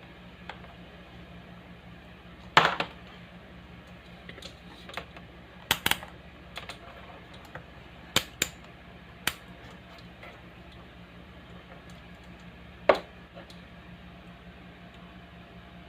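A speaker giving off a steady low mains hum, with scattered sharp clicks and knocks over it, the loudest about two and a half seconds in and again near thirteen seconds.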